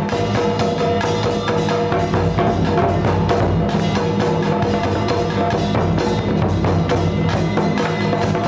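Ceremonial percussion music: fast, continuous strikes over steady held tones, without pause.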